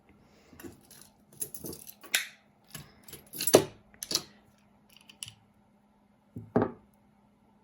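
Costume jewelry clinking and rattling in irregular sharp clicks as pieces are picked through by hand, loudest about halfway through.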